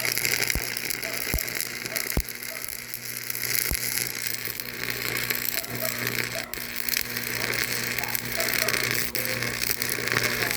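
Machinery running with a steady hum and hiss, with a few sharp clicks in the first four seconds.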